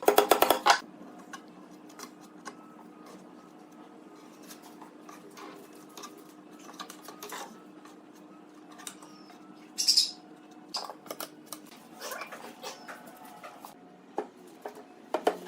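Workshop hand-work sounds: a brief run of rapid tool clatter at the start, then scattered light taps and clicks of wood and tools being handled over a faint steady hum, with a short hissing scrape about ten seconds in.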